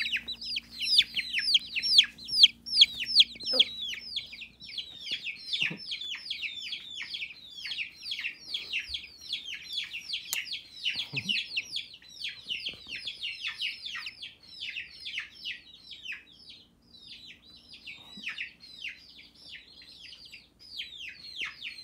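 A group of baby chicks peeping without pause: many quick high chirps, each sliding downward in pitch, overlapping one another. The peeping is loudest in the first third and grows thinner and quieter toward the end.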